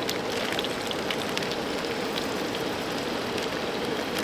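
Melted butter sizzling and spitting in a large cooking pot: a steady sizzle with scattered small crackles.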